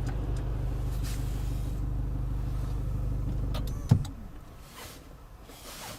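Toyota Land Cruiser Prado engine idling steadily, then switched off about four seconds in with a sharp click as the idle hum dies away.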